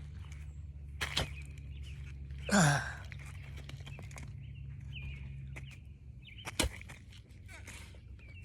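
Digging in soft, damp dirt: a few sharp knocks and one louder rasping scrape about two and a half seconds in, over a steady low rumble.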